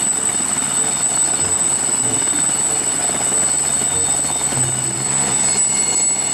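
Helicopter sound effect: a steady, loud rotor-and-engine noise with a high, thin, steady whine over it.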